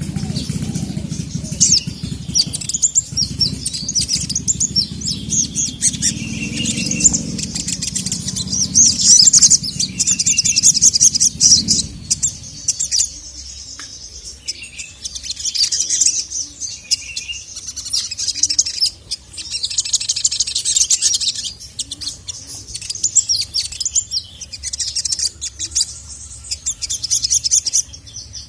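Sogon (sogok ontong) sunbird singing: rapid series of high chirps and trills, repeated in bursts throughout. A low rumble runs underneath for the first twelve seconds or so.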